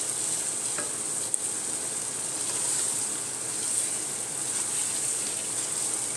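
Chicken pieces sizzling as they fry in a thick spiced masala in a nonstick pot, stirred with a wooden spatula: a steady frying hiss with the scrape of stirring, and one sharp click about a second and a half in.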